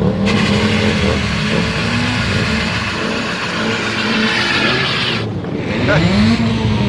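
A car engine revving, over a loud rushing noise that lasts about five seconds and then drops away. Near the end the engine note rises and falls once more.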